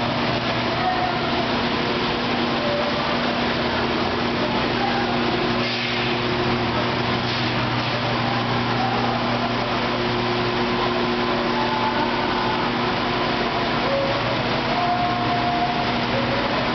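Jug-washing machine running: its 1 hp electric pumps hum steadily under a constant hiss of water spraying through the washing nozzles.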